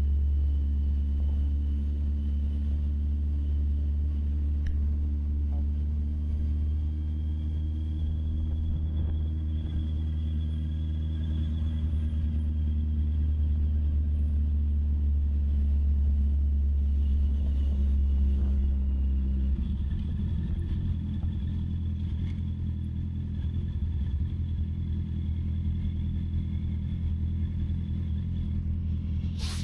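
Honda CB650R's inline-four engine running steadily, its note holding level, then changing pitch and character about two-thirds of the way in.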